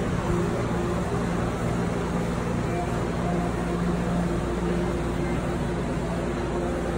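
A vehicle engine idling with a steady drone, with indistinct voices underneath.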